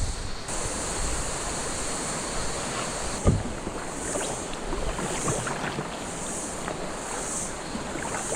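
Cicadas singing in a steady high chorus that swells about once a second, over splashing and lapping water from a kayak on the move. A single knock a little after three seconds in.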